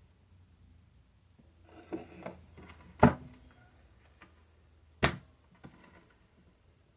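Tarot cards handled on a table: soft rustling, then two sharp taps, one about three seconds in and one about five seconds in, with a few faint ticks between.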